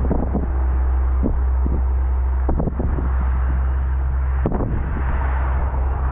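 Steady low rumble of a moving vehicle, with about half a dozen sharp knocks scattered through it, the loudest about four and a half seconds in.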